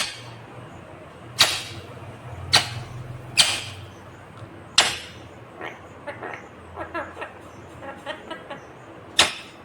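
Indian ringneck parakeet giving about six loud, short, shrill screeches, with softer quick chattering calls in between in the second half.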